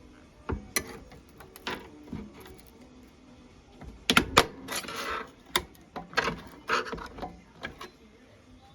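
Microwave door and tools being handled while it is taken apart: scattered sharp clicks and taps, with a loud burst of knocks and scraping about four seconds in and a few more clicks near the end.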